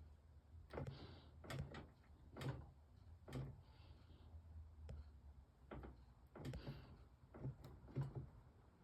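A series of faint clicks and knocks, about a dozen spaced irregularly, over a low steady hum.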